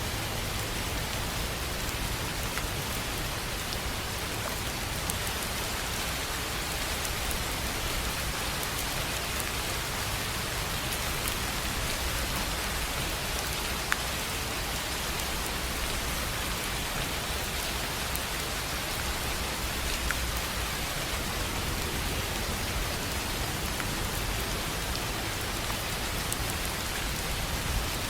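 Steady rain falling on a tin roof, an even hiss of drops with scattered sharper drop ticks.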